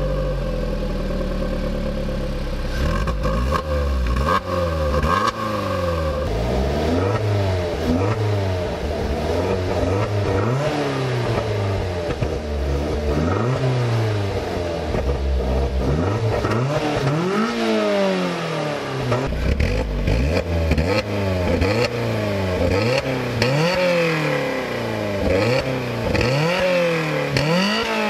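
Lotus Elise Series 2 Club Racer's four-cylinder engine just after start-up, idling at a steady raised idle for about six seconds, then revved repeatedly in short blips through the exhaust, the pitch sweeping up and back down every second or two, with a few higher revs near the end.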